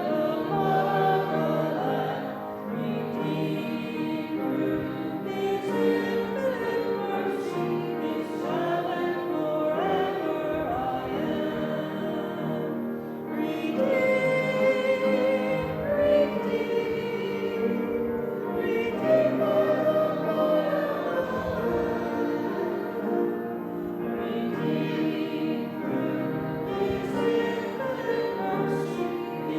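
A church congregation singing a hymn together.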